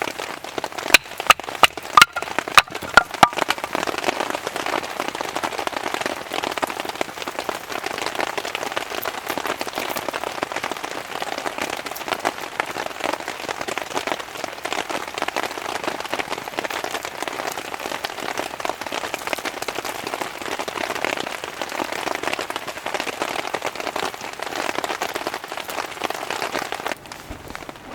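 Steady rain, a dense haze of fine drop hits. In the first three seconds a series of sharp knocks sounds over it. The rain sound falls away abruptly just before the end.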